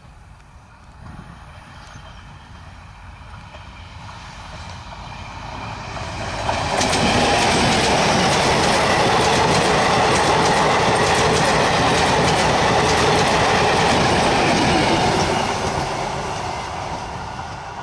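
DEMU (diesel-electric multiple unit) train passing close by: the sound builds over the first six seconds or so, then runs loud for about eight seconds with wheels clattering quickly on the track, then fades as it moves away.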